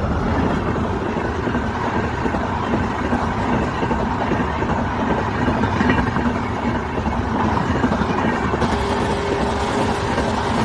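Passenger train coaches passing close by, a steady loud rumble and clatter of wheels on rails, with a faint steady whine joining near the end.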